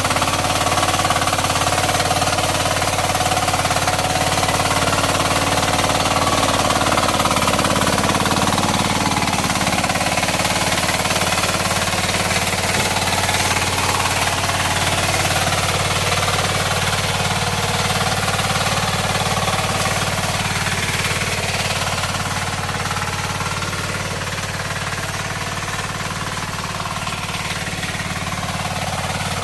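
Kisan Kraft KK-IC-406D power weeder's 9 HP diesel engine running steadily under load with a hard, rapid knocking beat, its rotary blades cutting weeds and earthing up soil.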